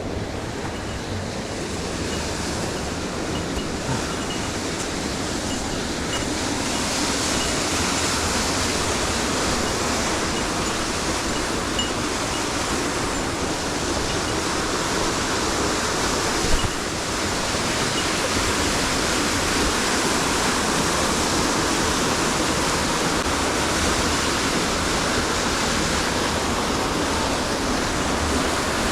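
Rushing water of a mountain stream, a steady noise that grows a little louder about a quarter of the way in, with a single short knock just past the middle.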